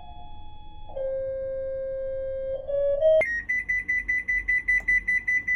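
Hitachi BEATWASH washing machine's electronic chime: a short melody of pure stepped tones, then from about three seconds in a fast, steady high beeping of about five beeps a second.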